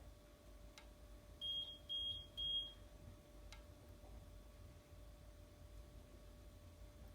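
An electronic device beeping three times, short, high-pitched beeps about half a second apart, over a faint steady hum.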